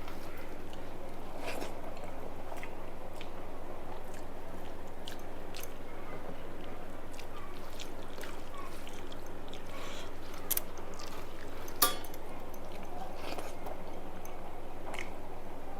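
A person chewing and eating a meal of rice and fried food, with scattered small mouth and crunch clicks over a steady low hum, and one sharp click about twelve seconds in.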